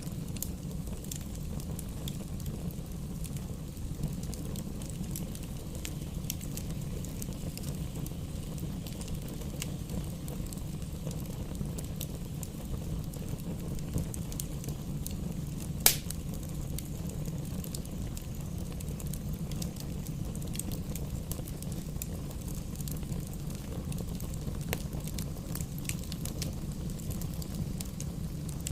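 Wood fire burning in a fireplace: a steady low rumble of flames with scattered small crackles, and one sharp pop about halfway through.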